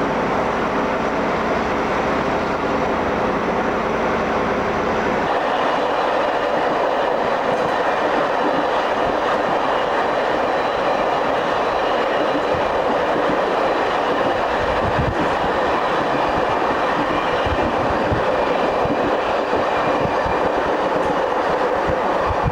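Train running along the track, wheels clacking over rail joints. About five seconds in, the sound changes abruptly and a low steady hum drops away.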